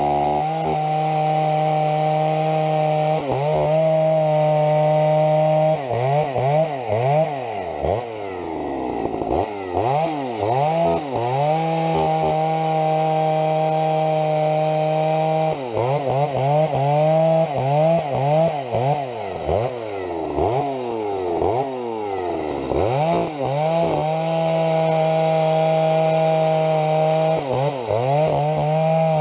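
Two-stroke chainsaw at full throttle, holding a high steady pitch for several seconds at a time. In between, the pitch repeatedly dips and sweeps back up. The owner hears the engine leaning out at high revs.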